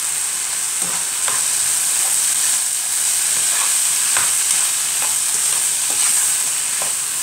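Chicken and freshly added carrots sizzling in a frying pan as they are stirred, with a steady hiss and the utensil scraping and knocking against the pan now and then.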